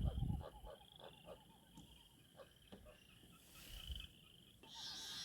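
A faint chorus of frogs giving repeated pulsed trills, overlapping one another, with a low rumble of wind on the microphone near the start.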